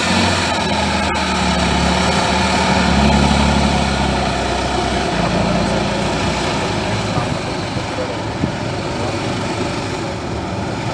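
Heavy truck engine running with a deep, steady tone that fades away after about six seconds, leaving a steady background rumble.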